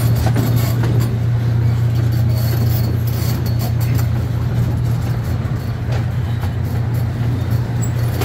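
Amusement-park train running steadily, a constant low engine drone with noise from the moving open cars, and a few light clicks about two to three seconds in.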